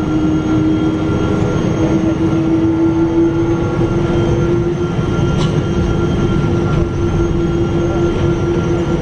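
Boeing 777-200 cabin noise: the engines and rushing air making a steady, loud low rumble with a steady drone that rises slightly in pitch.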